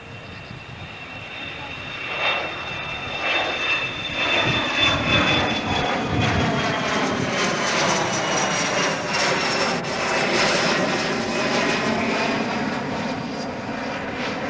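Airliner's engines passing, swelling to a loud steady noise over the first few seconds, with a high whine that falls slightly in pitch.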